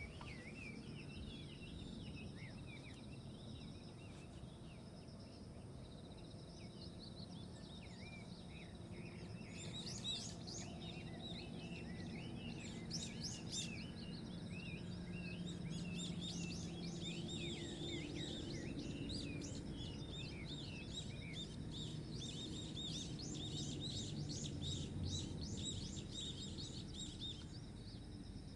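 Small birds chirping and twittering over a steady low background rumble. The chirping grows busier from about ten seconds in and thins out near the end.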